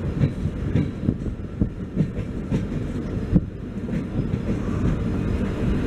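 Passenger train coach rolling slowly along the track, heard from its open doorway: a steady low rumble with frequent irregular knocks and clicks from the wheels running over the rail joints.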